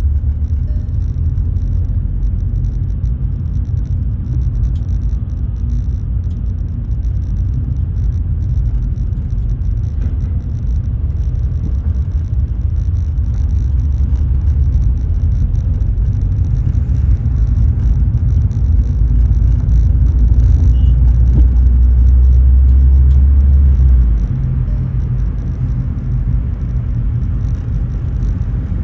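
Low, steady rumble of a car heard from inside the cabin while driving. It grows louder about two-thirds of the way through, then drops back suddenly.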